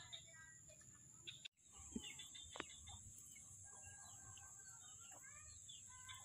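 Near silence with faint bird calls chirping now and then over a steady high-pitched hum. The sound cuts out completely for a moment about a second and a half in.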